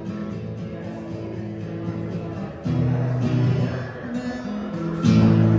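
Acoustic guitar strumming and holding chords, with fresh strums about two and a half seconds in and again near the end.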